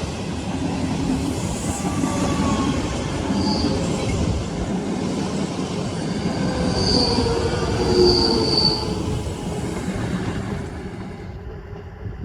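A passing train rumbling along the track, with high wheel squeals that come and go several times. The train sound fades away near the end.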